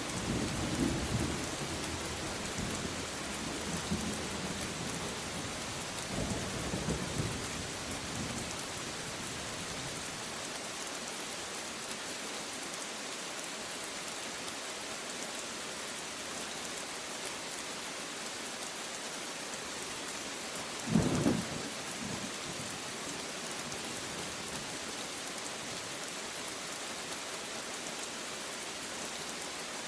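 Steady rain with thunder rumbling low through the first eight seconds or so. A short, sharp thunderclap about 21 seconds in is the loudest moment.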